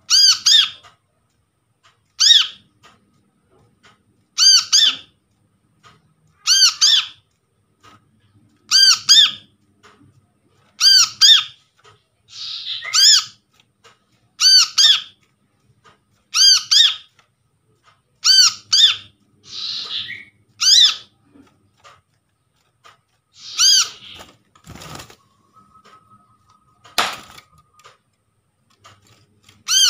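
Brown-throated sunbird calling: a sharp, high double-note call repeated about every two seconds, with a few harsher rasping calls mixed in. Near the end, two sharp knocks and a faint steady tone.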